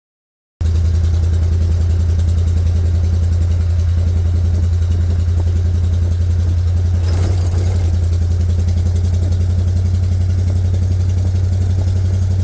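The 1959 Ford station wagon's engine idling steadily with an even low rumble, starting abruptly after a cut.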